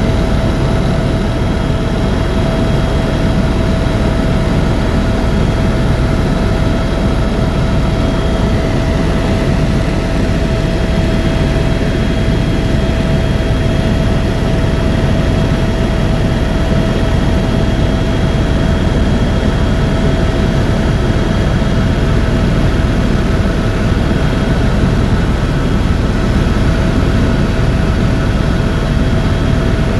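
Helicopter cabin noise in steady flight: a loud, even rotor and engine drone with a steady high whine over it.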